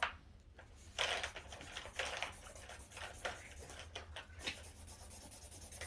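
Felt-tip marker scribbling on paper: rapid back-and-forth scratchy strokes, with two longer strokes about one and two seconds in.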